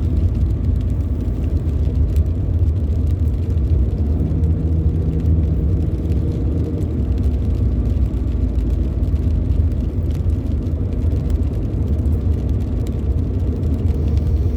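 Steady low rumble of a car heard from inside the cabin: engine and road noise while driving, with a faint hum that comes and goes in the middle.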